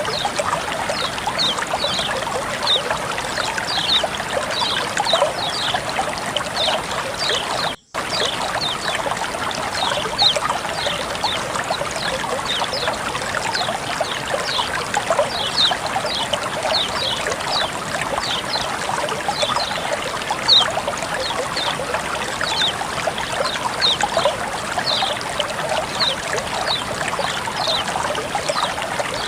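Water flowing and trickling steadily, with many quick little plinks and splashes over the rush. The sound drops out for a split second about eight seconds in.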